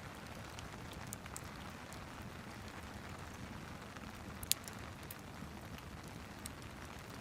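Steady rain hiss layered with the scattered crackles of a log fire, with one sharper pop about halfway through.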